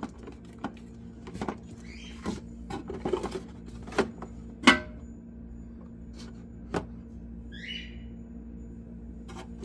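Plastic storage boxes and condiment bottles being handled and set down on fridge shelves: a scattered series of clicks and knocks, the loudest about five seconds in, with a brief squeak near eight seconds, over a steady low hum.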